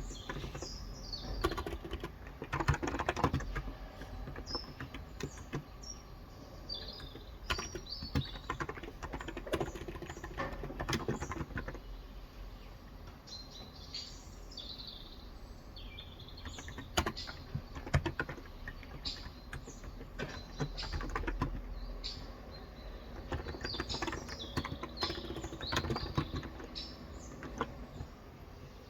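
Typing on a Cox Endeavor electrocapacitive keyboard with light 35 g keys: irregular bursts of keystrokes with short pauses between them. Small birds chirp throughout in short, high calls.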